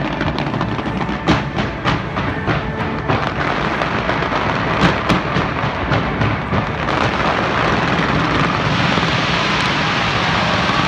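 Fireworks going off: a run of sharp bangs and crackles over the first six seconds or so, then a dense, steady rush of sound.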